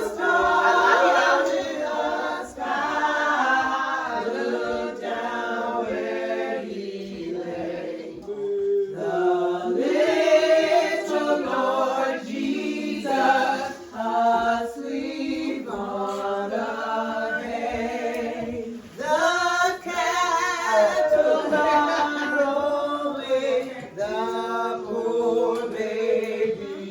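Several voices singing together, choir-like, with no clear instruments; the singing continues with short breaks between phrases.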